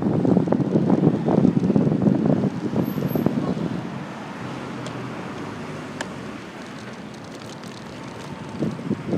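Wind buffeting the microphone of a handlebar-mounted phone on a moving bicycle. It is loud and choppy for the first few seconds, drops to a softer steady rush, then picks up again near the end.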